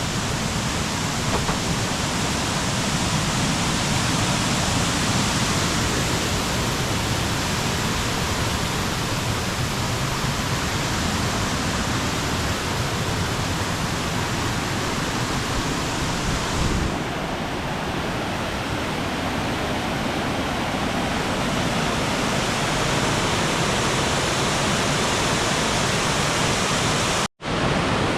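Waterfall: a loud, steady rush of falling water. The hiss turns slightly duller about two-thirds of the way through, and the sound cuts out for a moment near the end.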